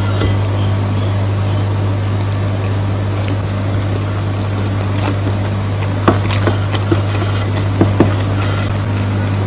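Eating sounds: a few short sharp clicks and smacks, clustered in the second half, over a steady low hum.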